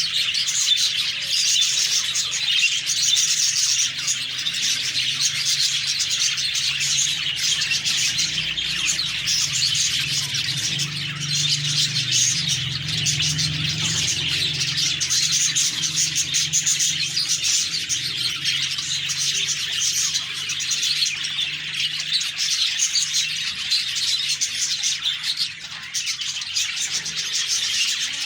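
A flock of budgerigars chirping and chattering continuously, many birds at once, with a faint low hum underneath.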